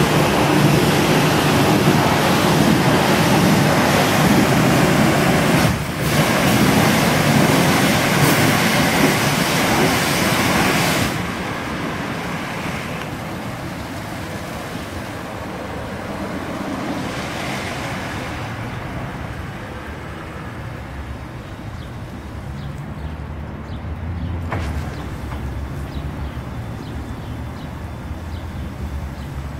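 High-pressure water spray from a self-service car wash hissing loudly, with a brief break about six seconds in, then stopping about eleven seconds in. A quieter steady noise with a low hum follows.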